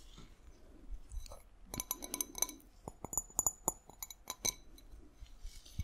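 Glass being tapped in a quick run of light taps, each with a short high glassy ring, from a couple of seconds in until about four and a half seconds.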